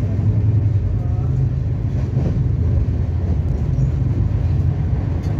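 Running noise of an Indian Railways Shatabdi Express at speed, heard from inside the coach: a steady low rumble.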